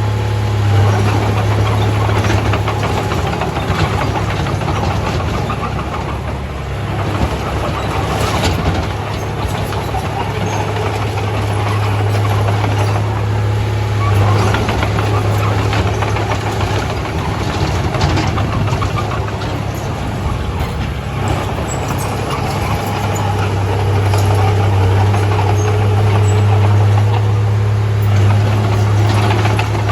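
Komatsu D31A bulldozer's diesel engine running steadily under work, a deep steady hum that swells somewhat in the later part, with a few short knocks mixed in.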